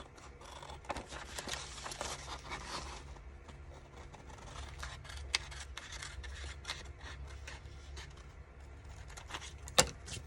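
Paper and card being handled and rubbed, rustling and scraping with many small clicks over a low steady hum; one sharp tap near the end.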